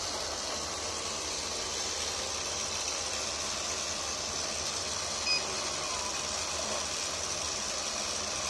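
Robot vacuum cleaner with a wet-mop attachment running steadily, its suction fan and brushes giving an even whirring hiss as it sweeps and mops at the same time. A brief tick about five seconds in.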